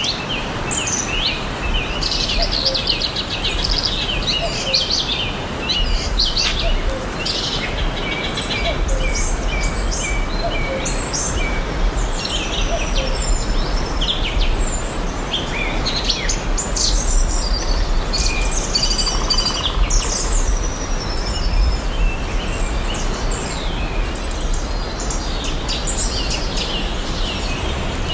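Forest ambience: many small birds chirping and trilling in overlapping calls over a steady hiss.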